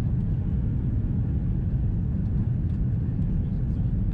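Steady low rumble inside the cabin of an Airbus A330-300 on final approach: engine and airflow noise from its Rolls-Royce Trent 700 engines.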